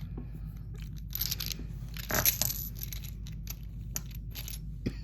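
Small beads clicking and clinking against each other as they are handled, a string of short irregular clicks with the loudest cluster about two seconds in.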